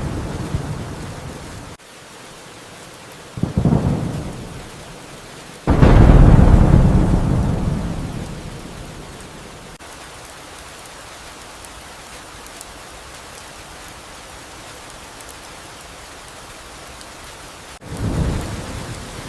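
Steady rain with thunder. A rumble cuts off early, a short crack comes about three and a half seconds in, and a loud clap about six seconds in rolls away over about three seconds. After that only the rain is heard until another rumble starts near the end.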